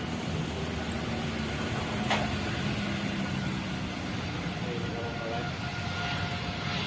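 Distant jet engine noise of a Boeing 777-300ER that has just taken off, heard as a steady low rumble with a faint hum. A single short click about two seconds in.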